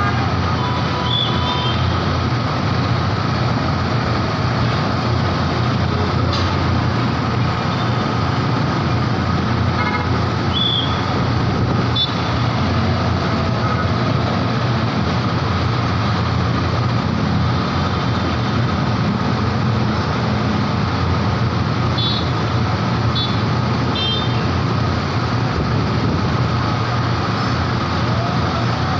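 Steady vehicle engine noise with a constant low hum, with a few short high chirps now and then.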